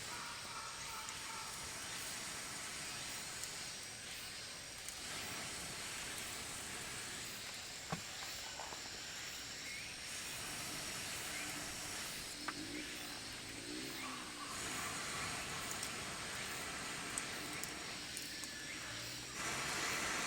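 Campfire burning under grilling yakitori skewers: a steady hiss with a few sharp pops, the loudest about eight seconds in.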